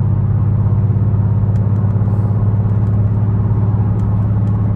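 BMW 550i's twin-turbo V8, fitted with catless downpipes, an H-pipe and a muffler delete, droning steadily with a low, even exhaust note and no revving.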